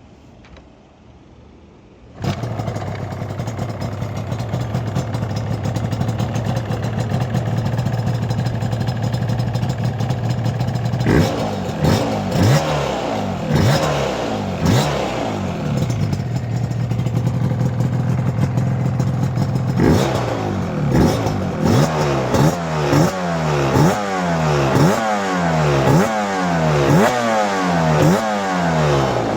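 Yamaha R1-Z's 250 cc two-stroke parallel-twin engine firing up about two seconds in, on its first start after a top-end and bottom-end overhaul. It idles steadily, is blipped several times, settles back to idle, then is revved in a run of quick blips about once a second.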